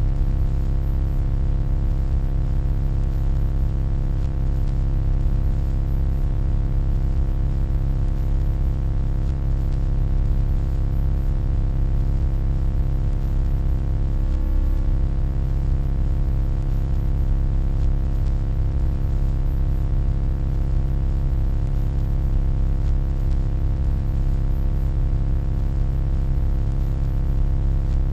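Steady, deep electronic hum made of many layered low tones, with a faint hiss above, and a slight brief wobble about halfway through.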